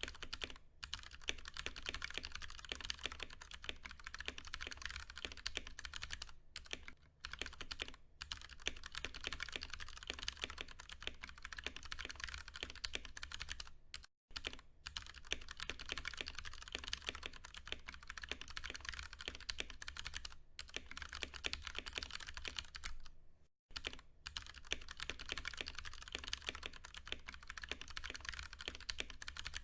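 Continuous typing on a Ducky One 2 Mini mechanical keyboard with tactile Cherry MX Brown switches: a fast, steady stream of keystrokes. It breaks off briefly a few times, about a quarter, half and four-fifths of the way through.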